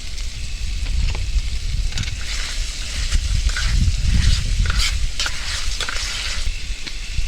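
Food frying in a pan while being stirred and scraped, with a crackling sizzle that grows busier about two seconds in and settles near the end, over a steady low rumble.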